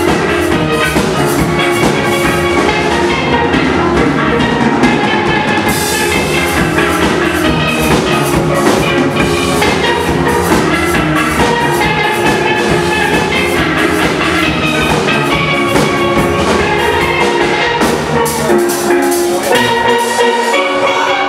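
Steel-drum band playing an up-tempo piece: many steel pans sounding melody and chords over a steady drum beat. The low bass notes drop away near the end.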